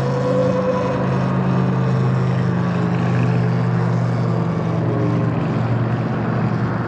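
Electric bike motor humming steadily while riding, with a higher whine that dips slightly in the first second, over wind and road noise on the chest-mounted microphone.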